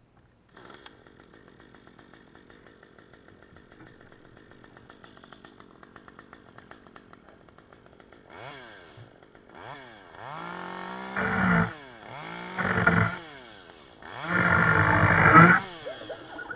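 Stihl MS 193 T top-handle two-stroke chainsaw idling with a fast, even ticking. It is then revved up and down in several short bursts, the last and loudest held for about a second and a half.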